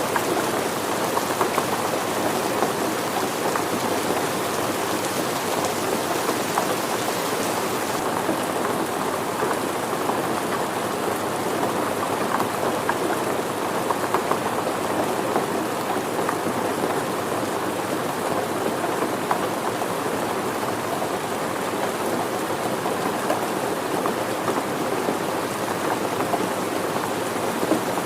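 Steady rain falling, with a dense, even patter of drops.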